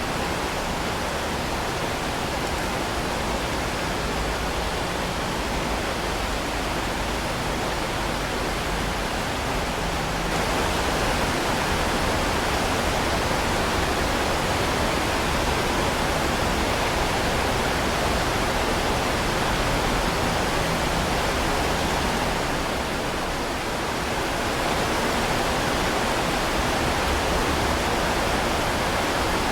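Heavy rain pouring steadily, a dense even hiss. It grows a little louder about a third of the way in and eases briefly for a second or two past the middle before returning.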